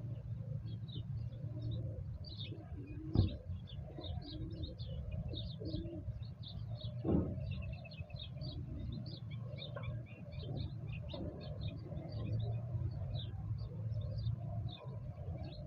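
Wild birds chirping and calling continuously, with short high chirps over lower calls and a steady low rumble underneath. Two short sharp knocks stand out, about 3 and 7 seconds in.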